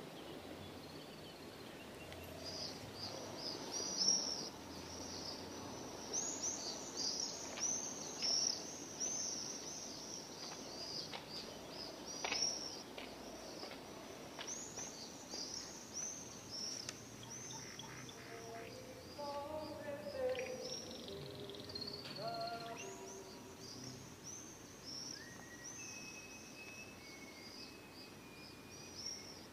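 Many small birds chirping in quick, high, repeated notes over a faint outdoor hiss, with a few sharp clicks in the first half and some lower calls past the middle.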